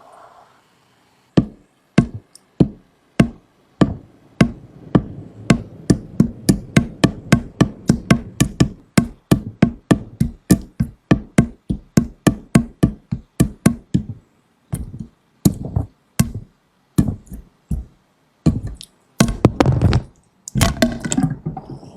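A run of sharp, dry percussive knocks, like a wood block or drum machine in a music track. The knocks come sparsely at first, then settle into a fast even beat of about three to four a second, and break into irregular clusters near the end.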